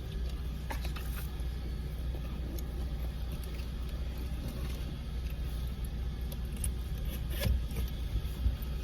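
Steady low rumble of a car idling, heard from inside the cabin, with a few short clicks and rattles, the sharpest near the end.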